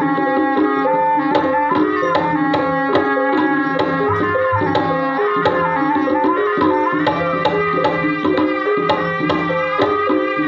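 Javanese gamelan music for an ebeg dance: steady hand-drum (kendang) strokes over ringing pitched notes, with a melody line that wavers and bends above them.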